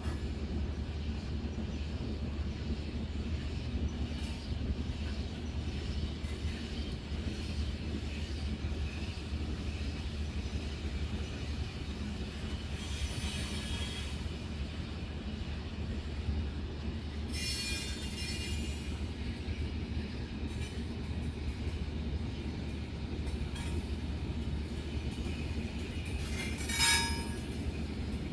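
Heavy iron-ore freight train's wagons rolling by with a steady low rumble. The steel wheels squeal high-pitched twice around the middle, and a short, louder squeal comes near the end.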